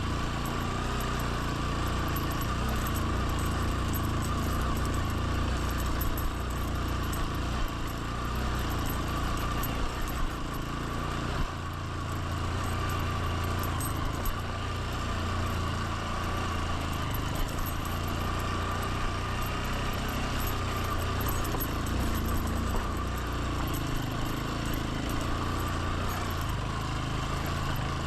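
Motorbike engine running steadily under way on a ride, with no clear revving or stops.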